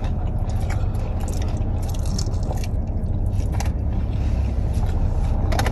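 Chewing and biting into fried chicken, with scattered small crunches and clicks, over a steady low rumble inside the car.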